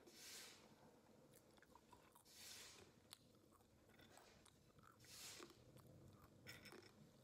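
A person quietly chewing crunchy snacks, roasted cashews and crispy fried green peas, with many small crackling clicks and a louder crunchy burst about every two to three seconds.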